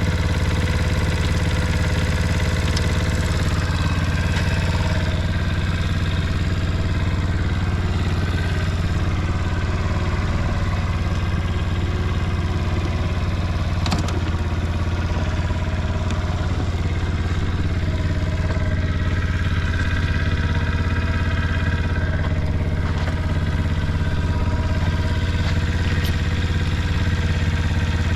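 Honda Motra's 50 cc four-stroke single-cylinder engine idling steadily and evenly; it runs quietly with no abnormal noise. There is a single short click about halfway through.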